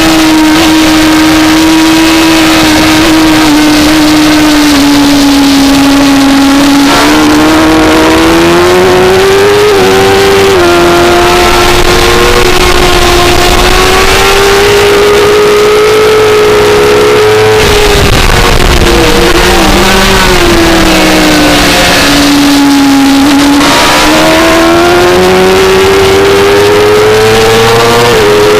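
2004 Suzuki GSX-R600's inline-four engine at racing speed, heard on board over a steady rush of wind. The engine pitch climbs with quick upshift breaks around ten seconds in and near the end. In the middle it drops away under braking, with a few stepped downshifts, before pulling up again.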